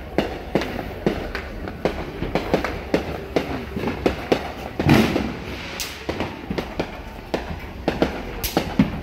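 Firecrackers and fireworks going off all around, a constant scatter of sharp bangs and pops several a second, with one louder boom about five seconds in.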